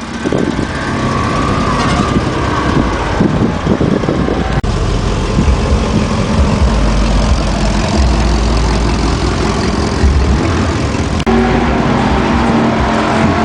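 Motor vehicle engine running loud, with a heavy low rumble. The sound changes abruptly twice, about four and a half and eleven seconds in; after the second change a steady low hum holds.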